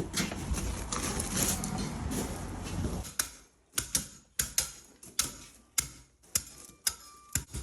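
Dense rustling noise, then from about three seconds in a run of sharp, uneven taps or knocks, roughly two a second, some with a faint brief ring.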